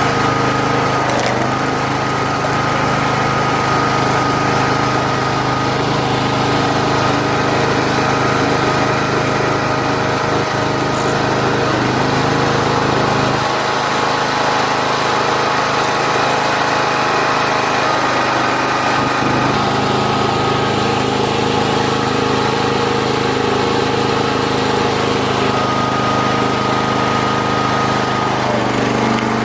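Small gasoline engine of a 40-ton hydraulic log splitter running steadily, driving the hydraulic pump. Its low-end tone shifts about halfway through and again a few seconds later, as the load on it changes.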